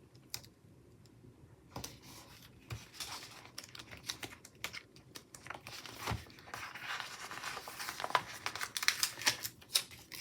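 Paper sticker sheets being handled: rustling and crinkling with small peeling and tapping clicks, starting about two seconds in and carrying on irregularly.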